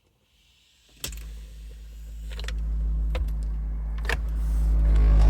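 Car-audio subwoofer driven into a big low rumble with a steady hum, set off when a loose speaker is moved: interference that pushes the sub as if at full power. It starts with a click about a second in and grows steadily louder, with a few small handling clicks.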